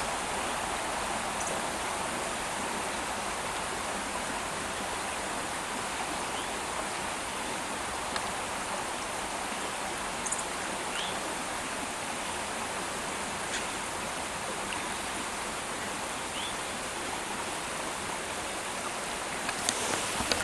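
Creek water flowing, a steady even rush with a few faint ticks over it.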